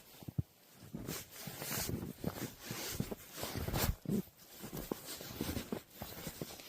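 Footsteps crunching in fresh snow, uneven and irregular, with a brief low sound about four seconds in.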